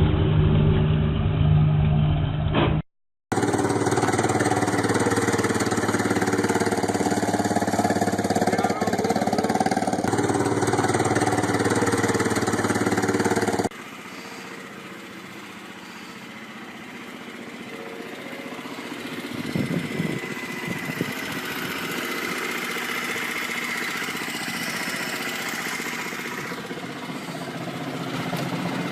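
Small engines of mini cars running, in several spliced clips: a short dropout about three seconds in, then a steady engine sound that cuts off abruptly about fourteen seconds in to a quieter engine sound, which swells around twenty seconds in.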